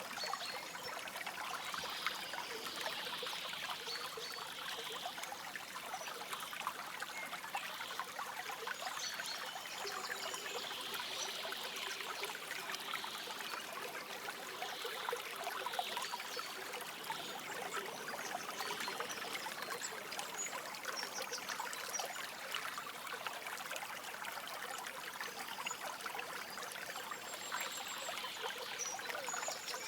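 A forest stream flowing steadily, trickling and burbling without a break.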